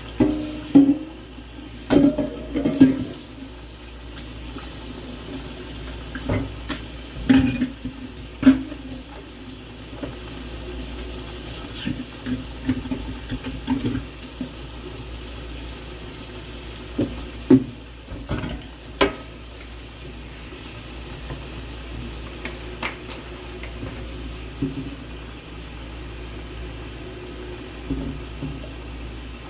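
Kitchen tap running into a sink during dishwashing, with scattered knocks and clatters of dishes handled in the basin, loudest in clusters near the start, about a quarter of the way in, and past the middle.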